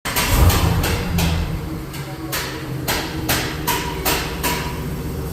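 Jeep Grand Cherokee Trackhawk's supercharged 6.2-litre V8 running just after being started, with a deep rumble that is heaviest in the first second and a half. Over it are repeated short, sharp noises about every half second.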